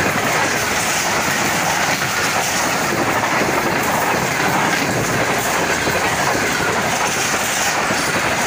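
Express passenger train running through the station at high speed without stopping: a steady, loud rush of steel wheels on the rails as the train passes close by.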